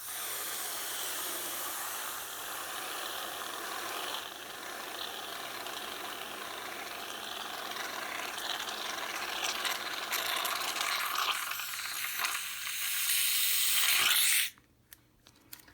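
A long steady hiss of pressurised carbon dioxide gas rushing through a valve on a soda bottle holding carbonated egg whites. It gets louder near the end and cuts off suddenly after about fourteen seconds.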